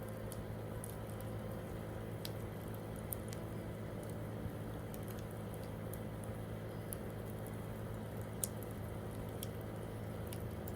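Wood campfire crackling, with scattered sharp pops and ticks of burning wood over a steady low hum; one pop stands out near the end.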